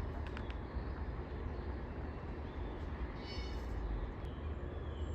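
Steady outdoor background noise with a strong low rumble, and a brief high-pitched call about three and a half seconds in.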